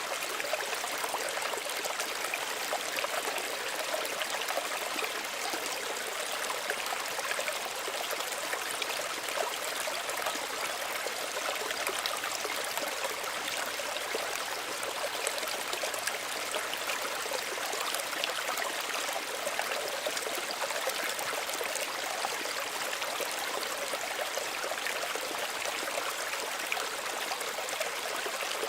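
Small stream running steadily, a continuous even rush of water with fine trickling and splashing.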